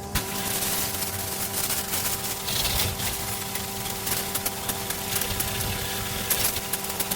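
A washing rig's motor runs with a steady hum while water spray hisses, swelling and fading in gusts. Scattered clicks and knocks are mixed in.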